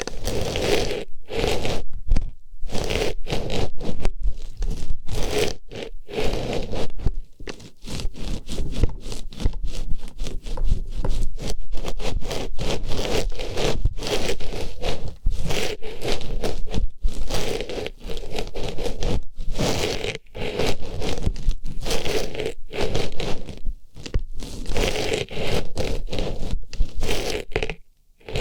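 Artificial flower pushed into and rubbed around an ear microphone: close, loud scraping and rustling strokes with short breaks between them.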